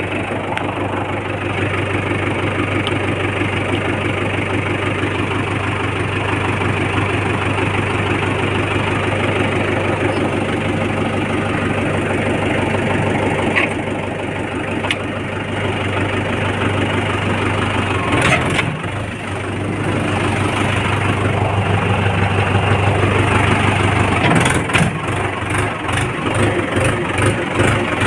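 Tractor engine running steadily at idle. Near the end it is joined by a regular knocking, about three beats a second.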